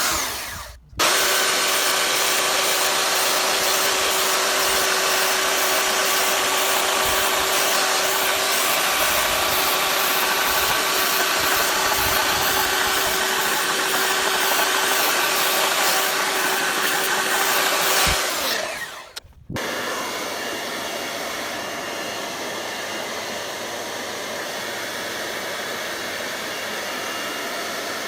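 A power tool running steadily with a constant whine and a hiss of air. It breaks off briefly about a second in and again near 19 seconds, then continues a little quieter.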